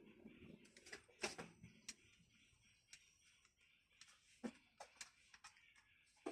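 Near silence broken by a few faint, scattered clicks and taps, the loudest about a second in.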